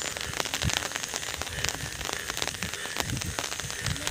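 Rain pattering on a nearby surface: a dense, irregular patter of drops over a steady hiss, with low bumps underneath.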